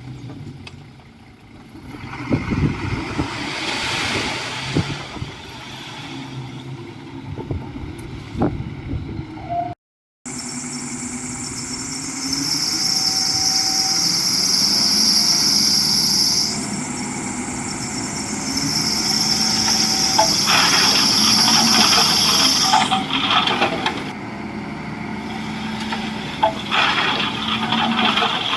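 Komatsu D51EX bulldozer working: a diesel engine running with scattered clanks and knocks. About ten seconds in the sound cuts out briefly, and a steady high-pitched whine comes in over the engine, changing pitch partway and stopping a few seconds before the end.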